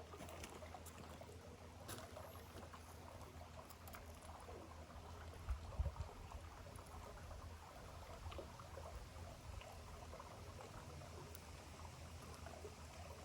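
Shallow creek water trickling and babbling faintly, with a few soft clicks and a dull knock about six seconds in.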